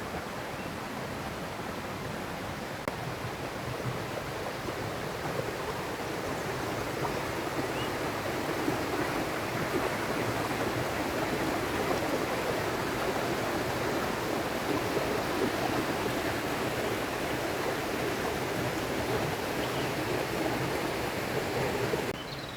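River water flowing steadily, a continuous rushing that swells gradually and drops suddenly near the end.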